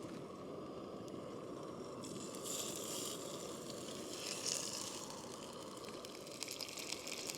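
MSR Pocket Rocket 2 canister stove burner running steadily under a skillet, with two short bursts of sizzling a few seconds in as hot Italian sausage goes into the hot pan.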